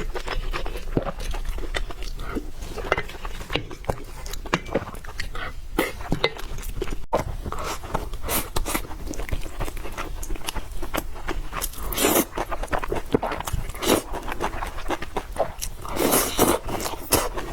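A person eating close to the microphone: steady chewing and crunching with many small wet clicks, and two louder, longer stretches, one about twelve seconds in and one near the end.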